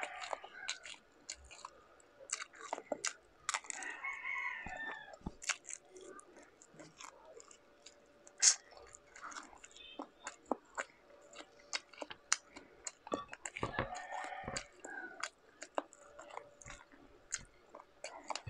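Close-miked chewing and wet lip-smacking of a person eating rice and shrimp by hand, with many small sharp mouth clicks. A rooster crows in the background twice, about four seconds in and again about fourteen seconds in.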